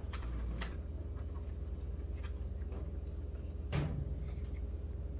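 Faint clicks and knocks of things being handled while someone rummages for a piece of heat shrink tubing, over a steady low hum.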